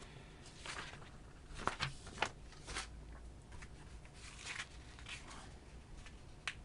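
Packaging and papers being handled during an unboxing: short scattered rustles and crinkles with a few light clicks and knocks.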